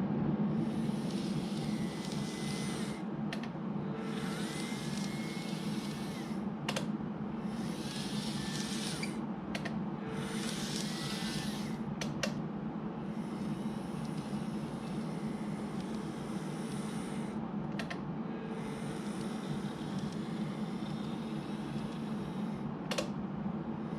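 N-gauge model train running on track: a steady motor hum with wheel-on-rail noise that rises and drops every few seconds, and a few sharp clicks.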